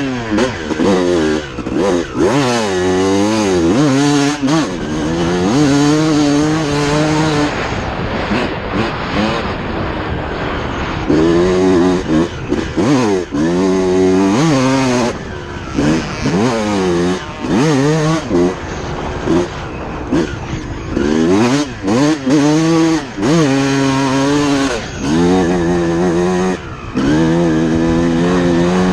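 Single-cylinder two-stroke motocross bike, a 2006 Suzuki RM250, ridden hard: the engine's pitch climbs and drops again and again as the throttle is opened and the gears change. It eases off briefly twice.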